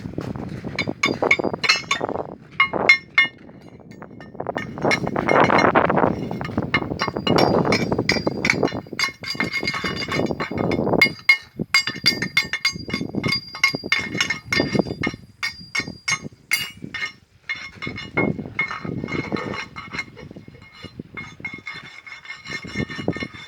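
Steel parts struck again and again in irregular sharp clanks, each leaving a ringing metallic tone, typical of hammering on excavator undercarriage steel.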